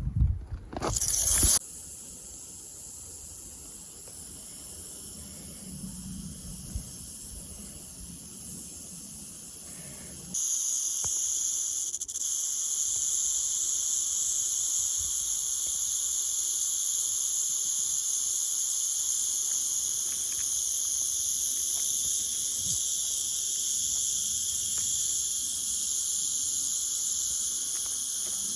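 Steady, high-pitched insect chorus. It becomes louder and fuller about ten seconds in and then holds steady. A brief burst of low rumbling noise comes at the very start.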